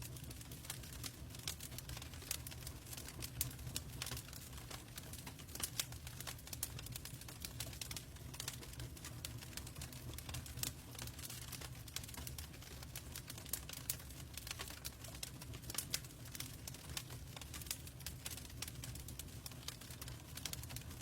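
Logs burning in a fireplace: irregular sharp crackles and pops, several a second, over a low steady rumble.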